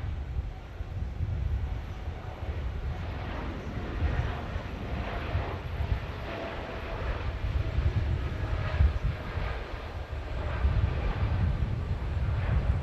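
Jet airliner engines running: a steady low rumble with faint whining tones over it.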